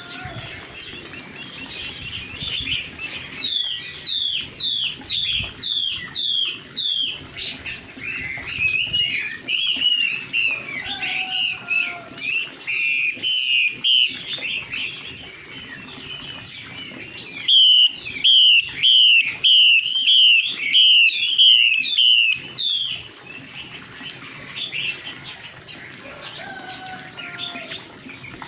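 Chinese hwamei (a laughingthrush) singing: a varied, continuous warbling song with runs of repeated slurred whistled notes, about two a second. The loudest run comes about two-thirds of the way through.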